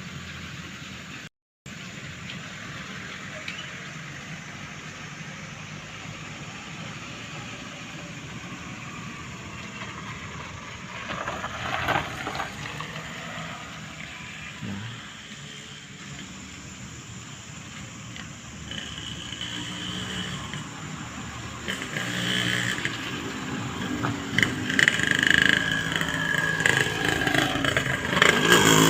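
Steady motor-vehicle and road noise, swelling briefly about twelve seconds in and growing louder over the last ten seconds as a vehicle comes closer.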